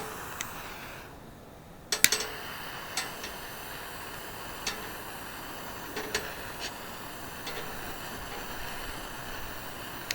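Charcoal fire crackling: scattered sharp pops and snaps over a steady hiss. The hiss drops away briefly about a second in, then returns with the loudest snap about two seconds in.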